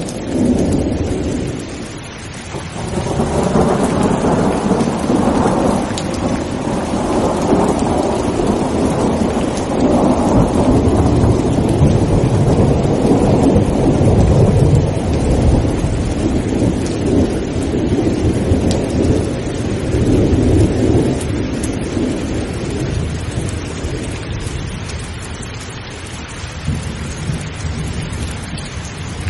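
Steady heavy rain with a long rolling thunder rumble that swells about three seconds in, stays strong for well over ten seconds, then slowly fades, leaving the rain.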